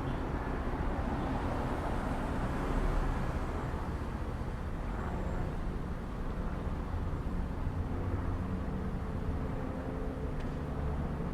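Steady outdoor traffic noise: a low, even rumble of road vehicles.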